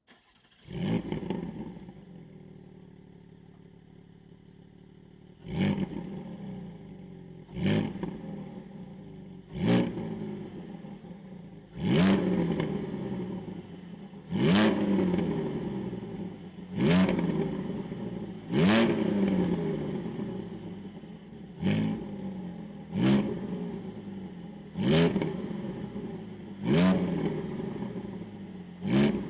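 Porsche GT4's flat-six engine, breathing through newly fitted Akrapovic titanium link pipes, starting up and settling to idle, then revved in short sharp throttle blips about every two seconds, each falling quickly back to idle.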